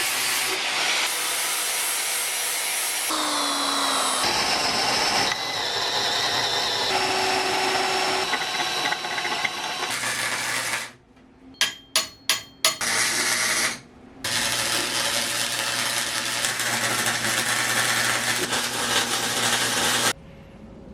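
Power tools grinding metal, in several short clips that cut in and out abruptly. A quick run of four sharp hits falls around the middle.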